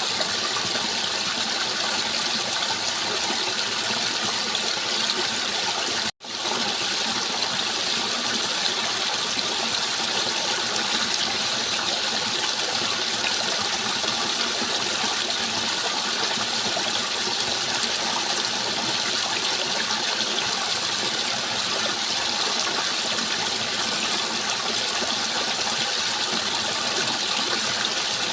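Steady rush of flowing water, which cuts out for an instant about six seconds in and then carries on unchanged.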